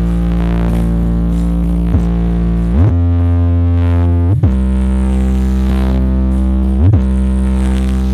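Loud sound system playing electronic music: long held synth-bass notes, heavy in the low end, sliding quickly up or down in pitch to the next note about every one to two seconds.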